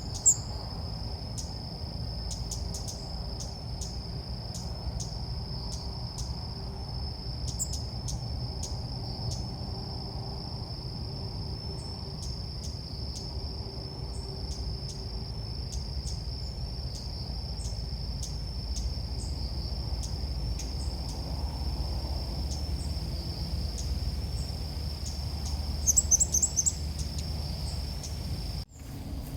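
Ốc mít bird calls played as a trapping lure: short high chirps repeating every second or so, with a louder run of calls near the end. A steady high-pitched tone runs underneath, with a low rumble.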